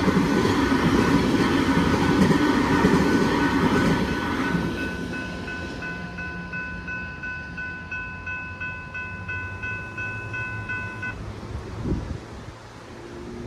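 A train passing over a level crossing, loud for the first four seconds or so and then fading away, while the crossing's electronic bell rings on in rapid repeated strokes. The bell cuts off about eleven seconds in, the crossing deactivating once the train has cleared. A single thump follows shortly after.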